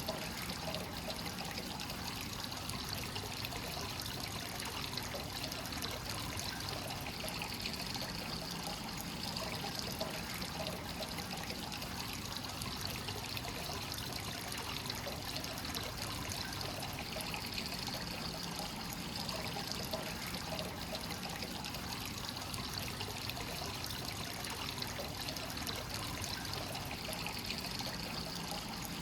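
Hot-spring water flowing continuously from the source into a natural-rock bath: a steady trickling, splashing pour that swells a little now and then.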